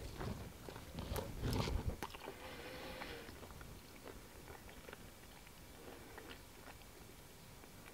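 A man chewing a bite of tender brisket: soft, wet mouth sounds, clearest in the first two seconds, then fading to faint.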